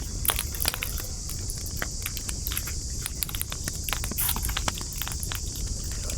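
Wood campfire crackling: irregular sharp pops and snaps, several a second, over a steady high hiss and a low rumble.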